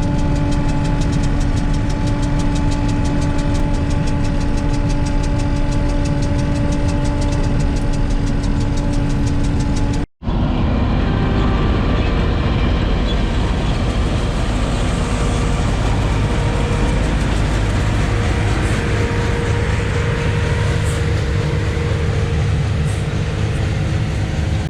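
Heavy farm diesel engine running steadily. About ten seconds in, a sudden cut gives way to a noisier, deeper rumble of machinery running.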